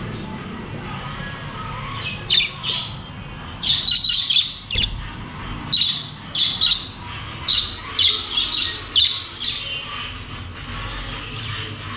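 Pet budgerigars giving a run of short, sharp squawking calls, bunched together, which die away near the end.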